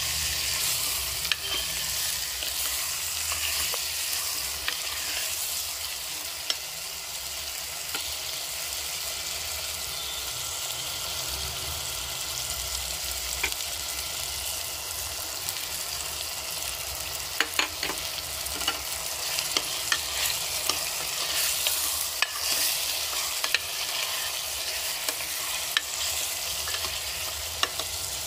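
Tomato pieces sizzling as they fry in oil in a pot while a spatula stirs them. A steady hiss runs throughout, with scattered sharp taps that come more often in the second half.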